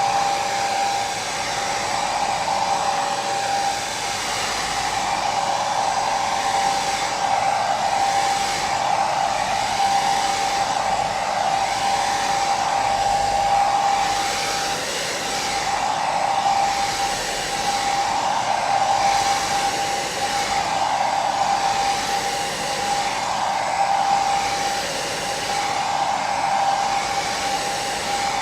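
Hair dryer running steadily: a continuous rushing blow with a steady whine on top, swelling and easing gently every couple of seconds.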